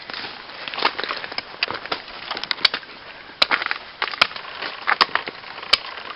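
Irregular sharp snaps and crunching, with the loudest snaps coming about once a second in the second half.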